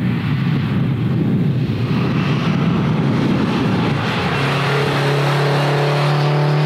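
Turbocharged 2005 Acura RSX's four-cylinder engine running hard on a race track, a rushing engine and road noise at first, then a steady droning engine note from about four seconds in as the car passes close by.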